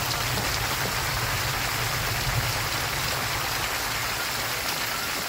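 Steady rain falling, an even, dense hiss, with a low rumble underneath.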